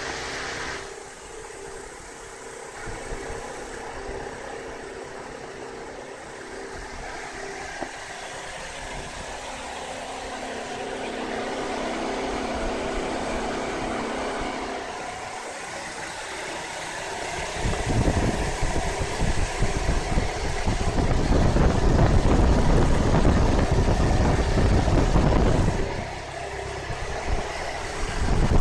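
Car engine idling steadily. From about seventeen seconds in, a loud rushing, buffeting air noise drowns out the low end of the sound; it drops away briefly near the end and then comes back.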